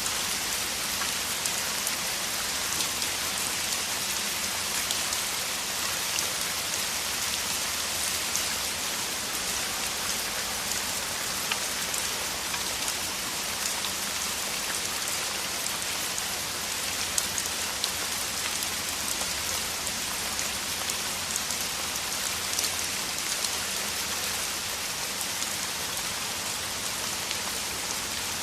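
Heavy rain falling steadily, a dense even hiss with many fine drop patters throughout.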